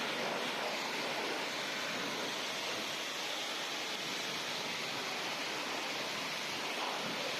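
Water spraying onto a car during a wash, a steady even hiss with no breaks.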